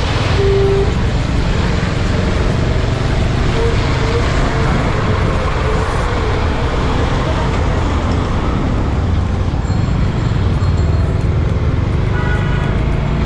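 Steady rush of wind and road noise from a motorcycle riding through city traffic, with a low engine and traffic rumble underneath. A short horn toot sounds about half a second in.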